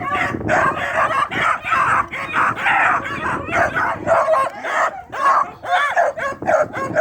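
Hound puppies giving tongue on a rabbit's trail: a rapid, continuous run of high yelping cries, two or three a second, rising and falling in pitch.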